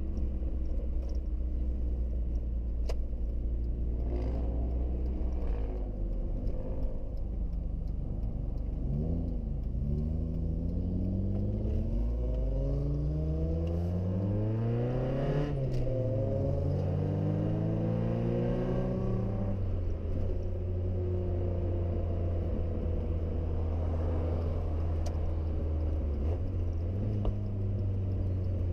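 Mazda Miata's four-cylinder engine running while under way. Its pitch climbs for several seconds midway as the car accelerates, falls back, then settles to a steady low drone.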